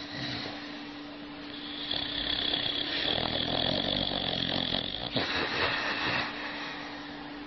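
Sleeping dog snoring: one long, drawn-out snore from about two seconds in to about six seconds in.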